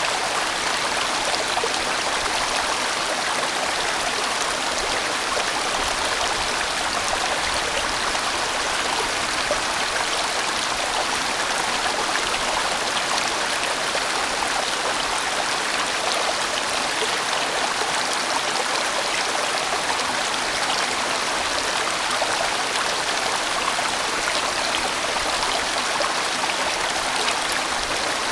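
A large mountain stream flowing and rushing steadily over rocks, a full, even water sound with no change.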